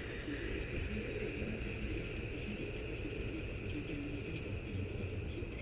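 Gasoline pouring steadily from a gas can into a motorcycle fuel tank, a continuous rushing hiss.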